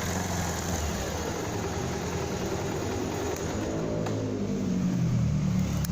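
Motorcycle engine running while riding, with a steady hiss of road and wind noise. About four seconds in the engine note falls, as when easing off, and the low engine sound then grows louder.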